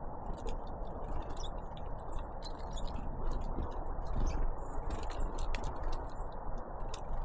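Great tits and blue tits pecking and tapping at seed, a rapid irregular run of small clicks, over a steady low noise.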